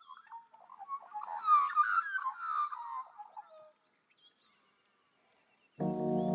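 Birds singing: a burst of fast, jumbled chirps and warbles for the first few seconds, over a thin, high, downward-sliding call repeated about twice a second. Music with held notes comes in near the end.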